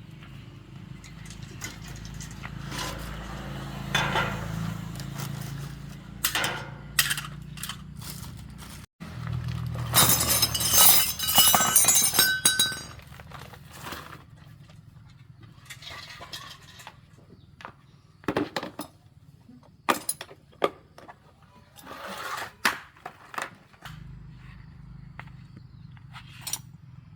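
A series of sharp clinks and knocks of hard objects being handled, with a dense clattering run about ten seconds in, over a steady low hum.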